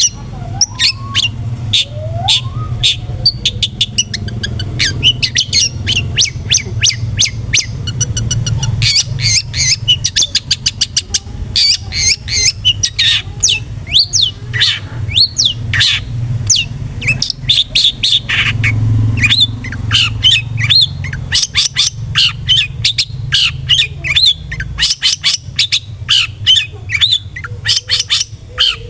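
Long-tailed shrike (cendet) in full song: a fast, unbroken run of short harsh chattering notes and sharp chips, with a quick even trill about eight seconds in, over a low steady rumble.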